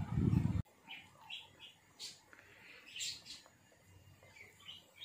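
A low rumble that cuts off abruptly under a second in, then faint bird chirps, short and scattered, with a few sharp ticks.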